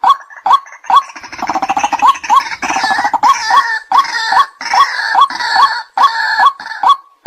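White-breasted waterhens calling: a steady series of short, clipped kwak notes about two a second, joined from about a second in by a harsh, chuckling chatter that runs almost to the end.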